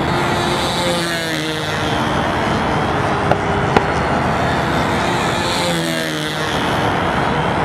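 Control-line model airplane's engine running steadily at high speed as the plane circles, its sound swelling and shifting in pitch each time it passes, twice about four and a half seconds apart. Two short clicks in the middle.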